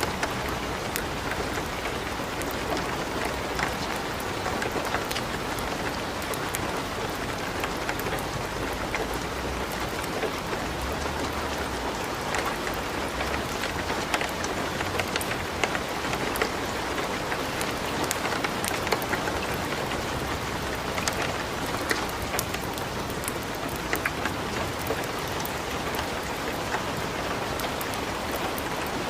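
Steady light rain mixed with a wood fire crackling in a fireplace: an even hiss with scattered sharp pops and crackles throughout.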